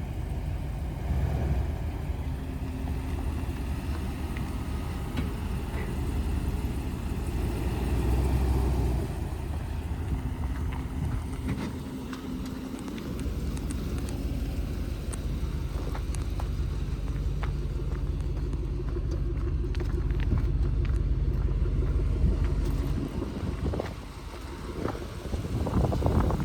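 Ram 2500 pickup truck's engine idling with a steady low rumble, with a few short knocks near the end.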